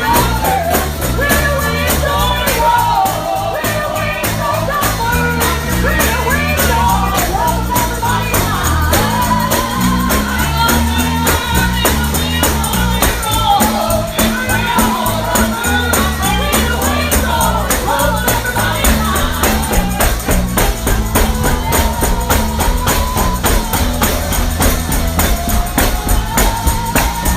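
Live gospel music: voices singing a melody over a tambourine shaken in a fast steady beat, with a bass line moving underneath.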